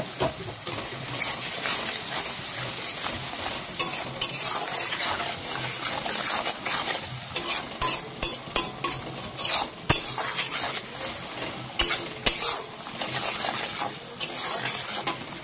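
Onion, tomato and ground-spice masala frying in hot oil in a wok, sizzling steadily while a spatula stirs and scrapes it against the pan in repeated short strokes.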